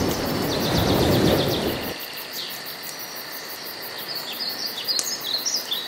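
Small birds chirping in short, quick falling notes, over a low rushing noise that cuts off suddenly about two seconds in.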